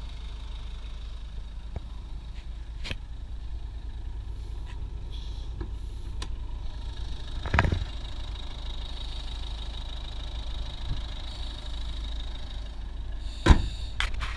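2011 Ford Focus 1.6 TDCi four-cylinder turbodiesel idling steadily. A knock comes about halfway through, and a loud thump near the end as the bonnet is shut.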